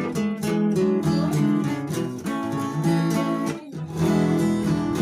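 Instrumental break of a sertanejo song: strummed acoustic guitar with other plucked strings playing a rhythmic accompaniment.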